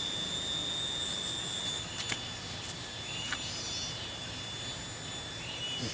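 Riverside outdoor ambience: a steady rushing background noise with a continuous high insect drone, a few short faint bird chirps, and two light clicks around the middle.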